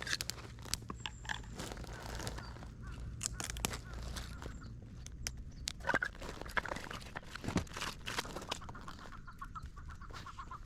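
A bird calling in short irregular notes, ending in a rapid run of repeated notes near the end, over scattered sharp clicks and knocks.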